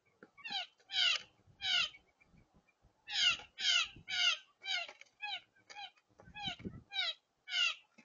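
An unseen bird calling: about a dozen short, loud, downslurred calls in quick runs of two or three a second. Under the calls, soft low knocks of a mourning dove pecking seed on the wooden feeder board.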